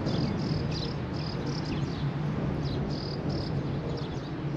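Small birds chirping in short, irregular high notes, several gliding downward, over a steady low hum and a wash of outdoor background noise.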